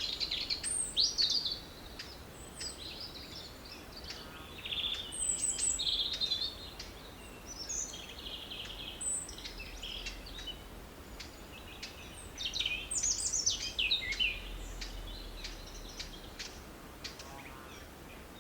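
Birds chirping and calling: a string of short, varied high-pitched calls, busiest about a second in, around five to six seconds in, and again around thirteen seconds in.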